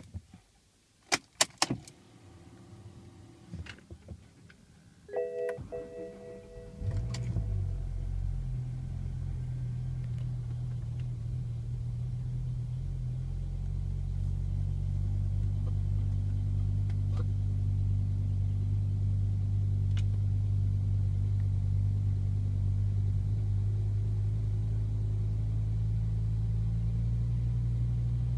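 BMW M5 engine cold start: keys jingle in the ignition, a short tone sounds about five seconds in, and the engine catches about seven seconds in, then idles steadily. The owner wonders whether the sound points to a VANOS fault.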